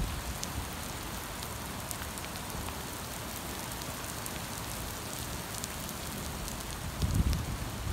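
Steady rain falling on a wet street: an even hiss with scattered faint drop ticks. From about seven seconds in, gusts of wind buffet the microphone with an irregular low rumble.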